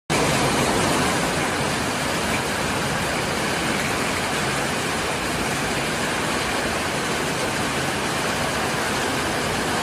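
Heavy storm rain pouring down, an unbroken steady hiss.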